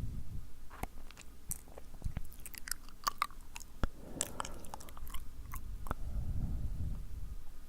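Close-up wet mouth sounds: sticky lip smacks and tongue clicks at an irregular pace. Soft breathy swells come into the microphone around four seconds in and again near the end.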